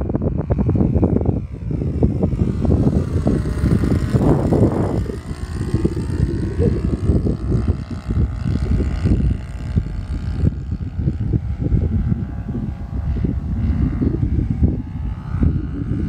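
Cessna 182 single-engine propeller plane flying past, its drone sweeping in pitch as it goes by, with heavy wind buffeting on the microphone.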